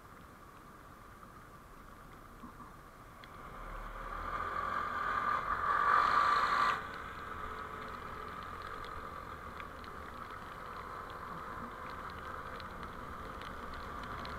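Road and engine noise of a moving vehicle as picked up by a dashcam: a steady hum that swells over a few seconds, drops off suddenly about halfway through, then runs on evenly.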